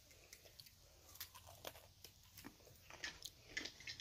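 Faint chewing of a carrot cake Oreo sandwich cookie close to the microphone: scattered soft crunches and crackles that grow busier over the last second or two.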